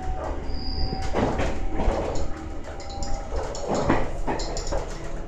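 Inside the carriage of a moving 185-series electric train: a steady low rumble of the running gear, with surges of wheel-on-rail noise.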